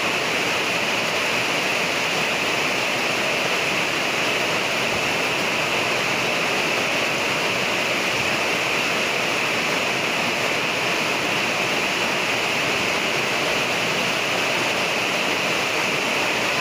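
Heavy tropical rain pouring down onto a wet road, a steady, even hiss with no let-up.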